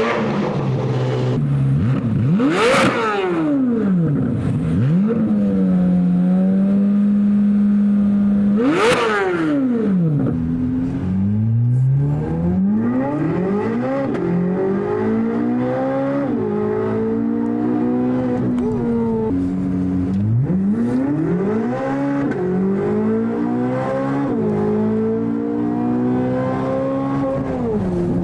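Chevrolet Corvette C8 Z06's flat-plane-crank V8 through a LeMans Edition track exhaust: two sharp revs about three and nine seconds in with a steady held note between, then several climbs through the revs, each ended by a sudden drop in pitch like an upshift.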